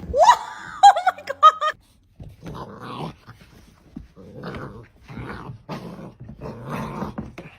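A dog giving a few quick high-pitched yips in the first two seconds, then a string of short, rough growls, one or two a second.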